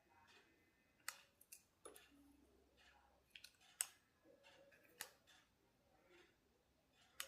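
Faint, scattered sharp clicks and light taps at irregular intervals: small parts and hand tools being handled during a repair.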